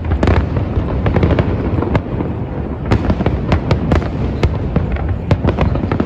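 Fireworks show going off: a dense string of bangs and crackling pops in quick succession over a continuous low rumble.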